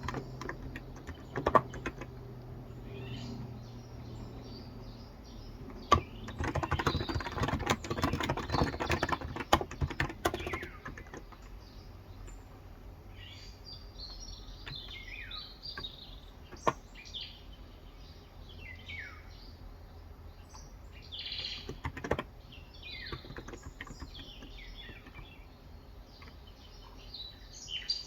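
Typing on a Cox Endeavor electrostatic capacitive (Topre-style) 35 g tenkeyless keyboard: a quick run of keystrokes for about four seconds near the start, then only a few single keystrokes. Birds chirp throughout, with many short, falling chirps in the second half.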